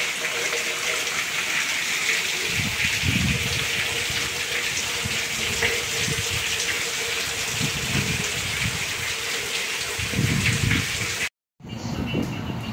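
Heavy rain pouring down: a dense, steady hiss of falling water, with a few low rumbles mixed in. A little before the end it cuts out abruptly and is followed by quieter street ambience.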